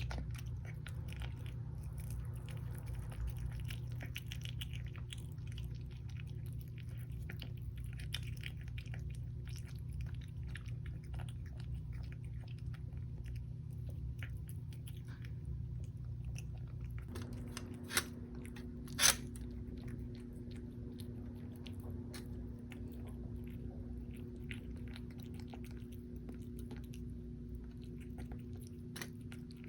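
Kitten chewing and crunching its food: a steady run of small crunches and clicks, with two louder clicks a little past halfway.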